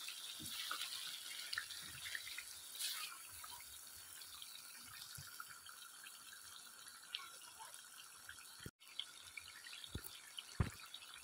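Chicken pieces in masala and oil frying in a wok, a faint steady sizzle with scattered small crackles. A few sharp knocks of the spatula against the pan come near the end.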